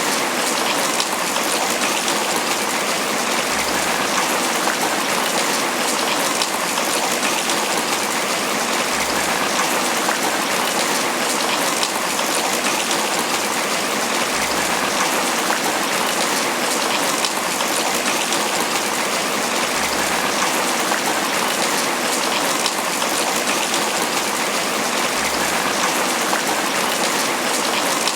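Tropical rain falling steadily on banana leaves, a dense even hiss of drops with no let-up.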